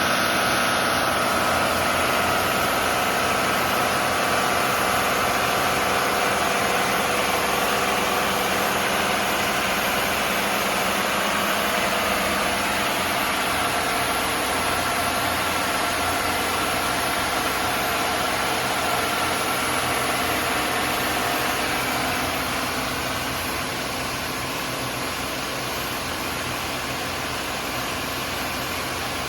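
Engines of a Bayliner 4788 motor yacht running steadily under way, a continuous mechanical drone with a haze of noise, dropping a little in level about three-quarters of the way through.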